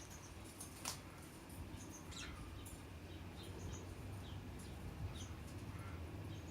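Budgerigars chirping in short, high, scattered twitters over a steady low hum, with one sharp click about a second in.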